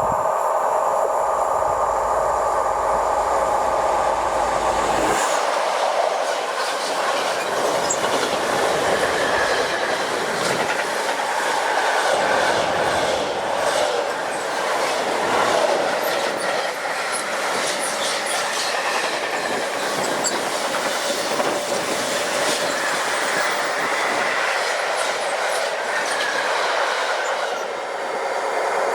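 A train passing close by on the line, loud and steady throughout. There is a whine over the first five seconds, then a long run of wheels clacking over the rail joints.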